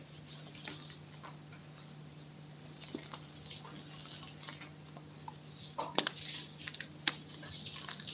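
Chalk crunching and crumbling in close-up: a fine crackle of small clicks that grows denser and louder about two-thirds of the way in, with two sharp snaps, over a faint steady hum.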